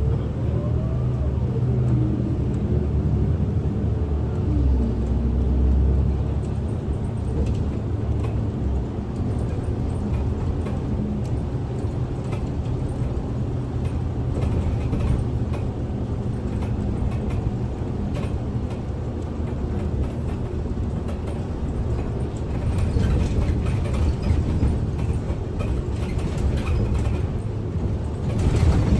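Interior of a Kyoto City bus under way: steady engine hum and road rumble. The engine pitch rises then falls in the first couple of seconds, and clattering rattles pick up in the last several seconds.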